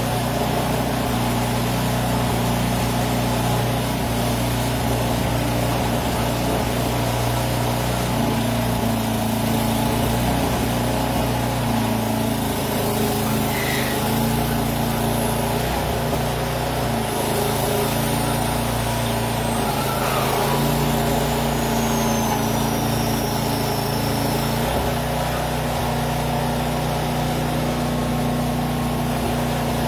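An engine running steadily at an even speed, with a faint high whistle sliding down in pitch a little past the middle.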